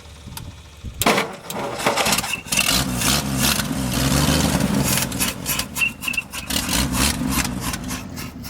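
1962 Ford F-350 engine catching about a second in and running unevenly for several seconds, with a short high whistle coming and going, before dying away near the end.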